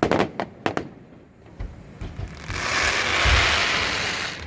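Fireworks going off: several sharp bangs in the first second, then dull booms and a long, loud crackling hiss from about two and a half seconds in.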